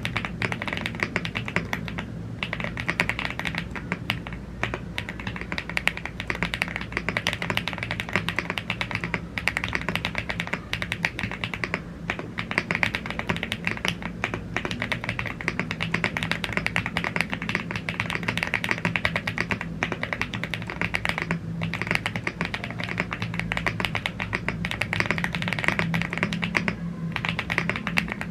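Fast, continuous typing on a YUNZII AL75 gasket-mounted aluminium mechanical keyboard with Blue Grey tactile switches and double-shot PBT Cherry-profile keycaps: a dense stream of keystroke clicks, broken by a few brief pauses.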